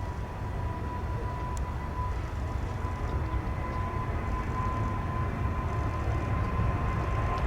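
Boeing 777-200ER's jet engines running at takeoff power: a low rumble that grows steadily louder, with a steady high whine.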